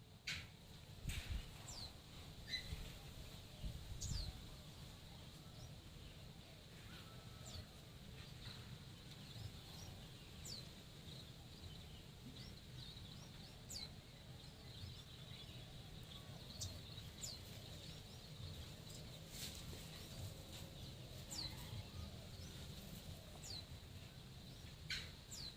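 Small jongkangan birds in an aviary calling with short, high, downward-sweeping chirps, one every second or two, over a steady low hum.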